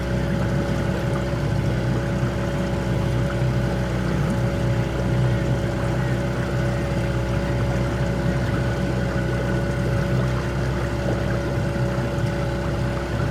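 Boat's outboard motor running at a steady speed, its even drone holding one pitch throughout.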